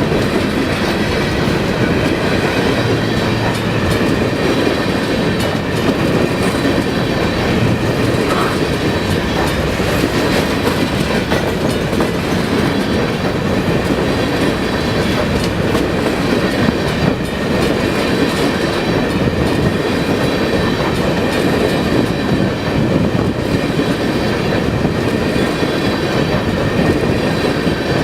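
Freight train of hopper cars rolling past at close range: steady loud wheel-on-rail noise with a clickety-clack of the wheels.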